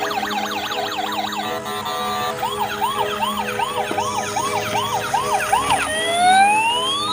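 Electronic police-style siren cycling through its patterns: a fast yelp, then a chirping warble of about three rising-and-falling notes a second, then a slow rising wail near the end.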